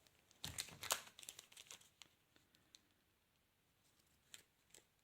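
Faint crinkling and light clicks of foil trading-card packs being handled, mostly in the first two seconds, then a couple of soft taps near the end.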